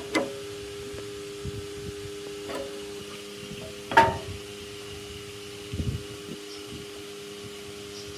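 A steady electric hum with a few scattered knocks and clatters of hard objects being handled, the loudest about four seconds in.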